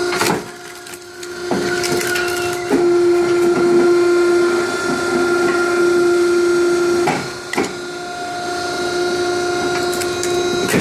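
Homemade firewood processing machine running with a steady high whine, louder in the middle stretch, and several sharp knocks and cracks of wood being pushed and split.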